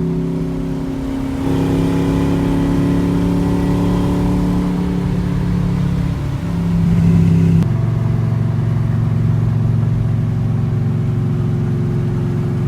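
A 327 small-block Chevy V8 running hard on the road in a 1955 Pontiac with a 4-speed. It holds a steady note, gets louder about a second and a half in, and drops suddenly to a lower pitch about seven and a half seconds in, as with a shift up a gear.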